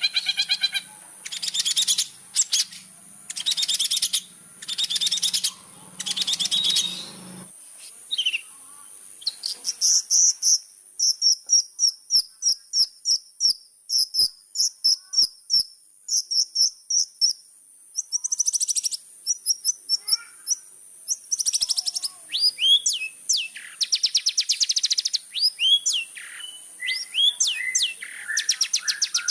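Long-tailed shrike singing: about seven seconds of harsh, buzzy rasps, then quick series of short high chirps, then varied sliding whistles and chatter near the end. A steady high thin whine runs underneath throughout.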